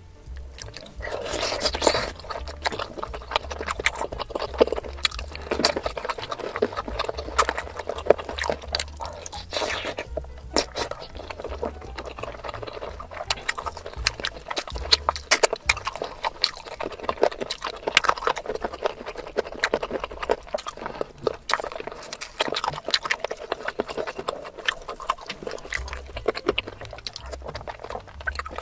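Close-miked eating sounds: wet chewing and mouth smacks of someone eating spicy chicken and mutton curry with fufu, with irregular clicks throughout.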